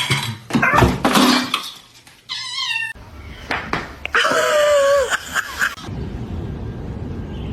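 A cat meowing several times, the longest meow about four seconds in, followed by a steady low background rumble near the end.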